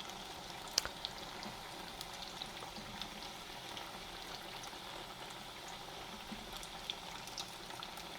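Potato chops in gram-flour batter deep-frying in hot oil: a steady sizzle with scattered small crackles, and one sharper click about a second in.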